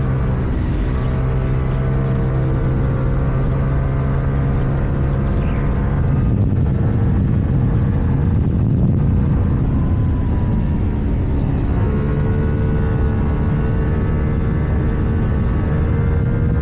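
KTM 790 Duke's parallel-twin engine through an Akrapovič exhaust, running under way at a steady note, going rougher and less even about six seconds in, then settling back to a steady note near the end.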